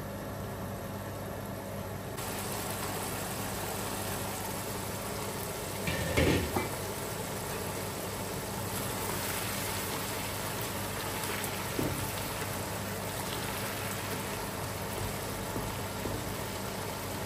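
Onions and ginger-garlic paste sizzling as they fry in oil over a high flame, getting brighter about two seconds in, with a steady low hum underneath. A few knocks on the pot, the loudest about six seconds in.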